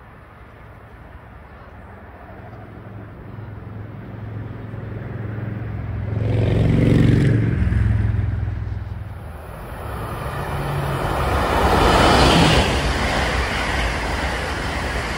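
Amtrak Acela high-speed train approaching and passing on the near track: a building rush of wheel and air noise, with a first swell about seven seconds in and the loudest pass about twelve seconds in.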